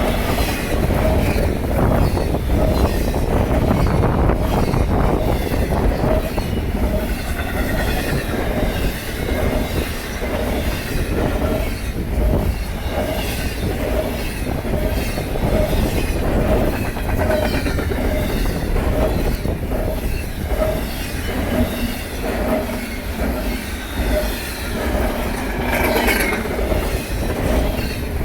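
Intermodal freight train rolling past at speed: steel wheels clattering over the rail with a light squeal. A regular beat repeats about one and a half times a second.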